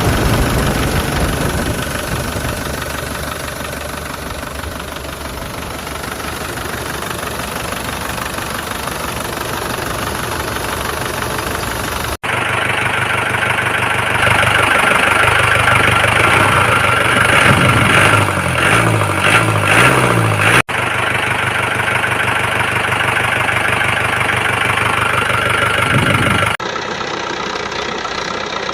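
Motor vehicle engine running and idling in spliced segments that switch abruptly about twelve seconds in, again about twenty-one seconds in, and near the end. The middle segment is louder and rises and falls unevenly like an engine working under load.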